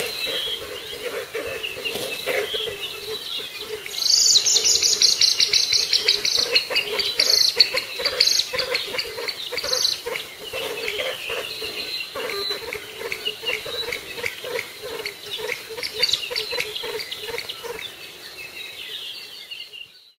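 Outdoor chorus of bird calls and chirps with insects, including a loud, rapid run of high-pitched chirps from about four to ten seconds in. It cuts off abruptly at the end.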